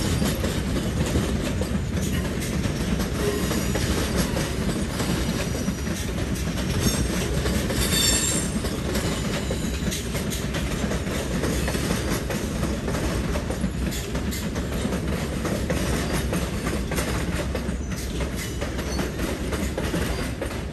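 Long Island Rail Road train running on yard and station tracks: a steady rumble with wheels knocking over rail joints and switches. A brief high-pitched wheel squeal comes about eight seconds in.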